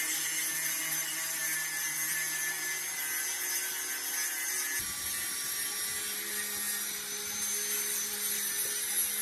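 High-speed power tool running steadily with a high-pitched whine, its low hum shifting about five seconds in.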